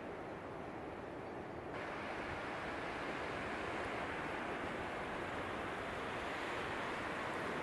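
Strong wind blowing in a steady rush, turning louder and hissier about two seconds in as a gust builds.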